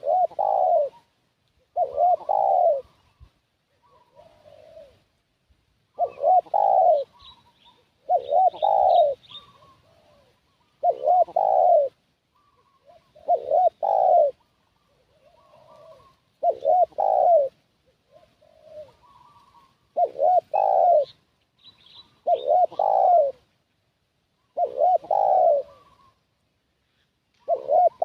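Spotted dove (tekukur) cooing its lure call: a loud coo phrase repeated about every two and a half seconds, about eleven times, with softer coo notes between the phrases. Faint high chirps of small birds come in near the middle and again later.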